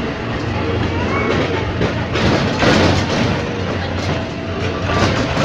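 Ex-JR 203 series railcar running on Philippine National Railways track as a locomotive-hauled coach: steady rolling rumble and rail clatter under a low hum, swelling louder about two to three seconds in, with a few sharp wheel knocks near the end.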